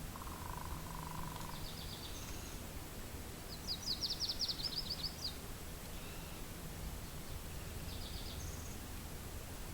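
A small bird singing rapid trills of high, quick notes three times, the longest and loudest about four seconds in, over a steady low wind rumble. A fainter, lower call comes near the start.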